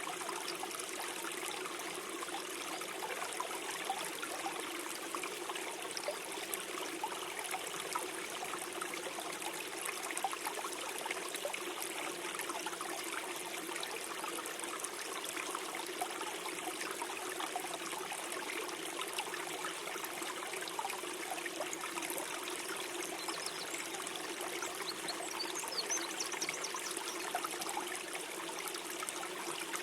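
Small forest stream flowing steadily, a continuous gurgling, trickling rush of water.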